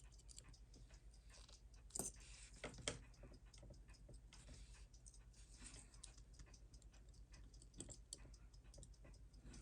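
Faint, irregular small clicks and taps of metal watchmaker's tools on the parts of a watch movement, with two sharper clicks about two and three seconds in, over a low steady hum.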